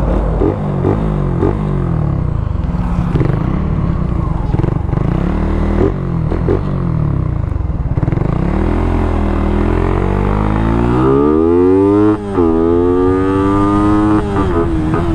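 Suzuki Raider 150's single-cylinder four-stroke engine through its stock muffler under hard acceleration. It runs unevenly at first, then from about eight seconds in the pitch climbs steadily. A brief drop near twelve seconds marks a gear change, and then it climbs again.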